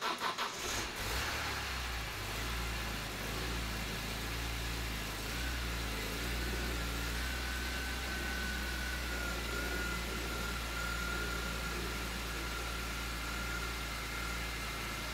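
BMW S54 straight-six in an E46 M3 catching and starting, with a few quick pulses in the first second, then idling steadily; a faint steady whine joins about five seconds in. This is the engine's first start after a Vanos rebuild, with the drained Vanos unit still building oil pressure.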